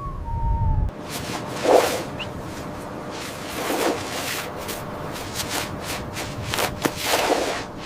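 Rough scraping strokes over a steady hiss, a stronger stroke about every two seconds.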